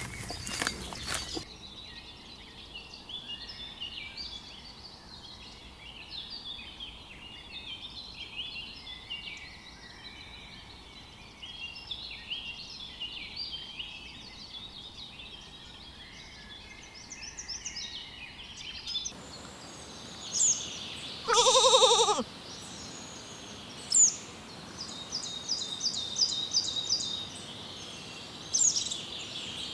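A sheep gives one loud bleat about two-thirds of the way through, over a steady background of busy, high-pitched chirping.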